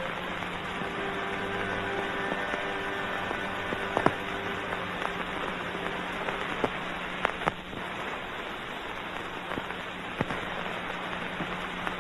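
Steady hiss and crackle of an old optical film soundtrack over a low steady hum, with a few sharp clicks, the loudest about four and seven seconds in. Faint held notes of music die away in the first half.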